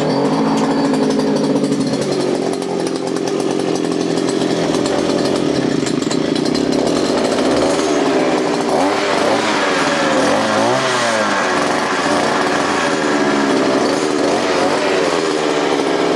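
Small two-stroke engine of a gasoline post hole digger (earth auger) running loudly and steadily, cutting in suddenly at the start. About halfway through, the engine speed rises and falls several times as the throttle is worked.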